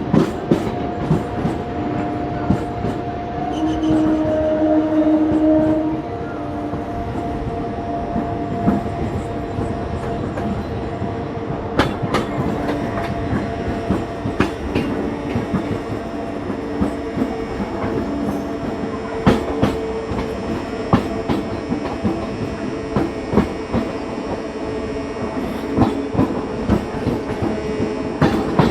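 Passenger train running along the track: a steady rumble with a low hum and the wheels clacking over rail joints.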